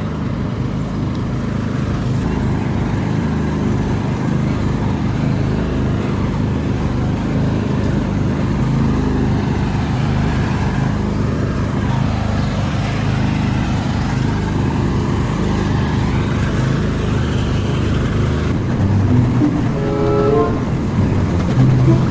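A tractor engine runs steadily under way with a continuous low rumble. Near the end come a couple of short pitched toots.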